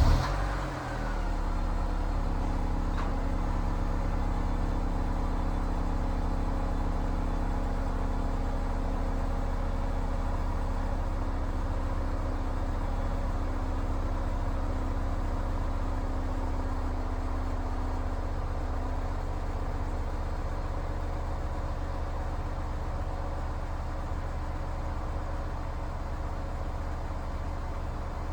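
Honda S2000's four-cylinder engine just after a cold start, catching and then settling into a steady fast idle; its tone changes about two-thirds of the way through.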